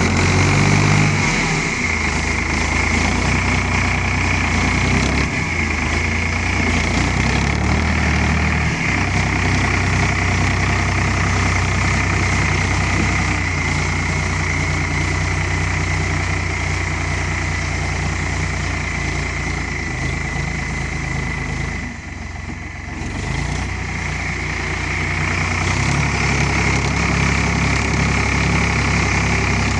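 Ford 3600 tractor engine running steadily, with a steady high whine alongside; the engine sound dips briefly about three-quarters of the way through, then picks back up.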